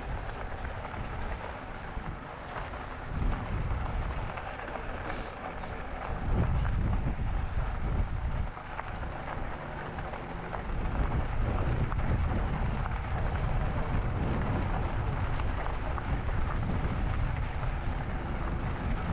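Wind rushing over the microphone of a camera riding on a moving e-bike, a steady low rumble mixed with tyre noise from the trail. It gets louder about six seconds in and again about halfway through as the bike picks up speed downhill.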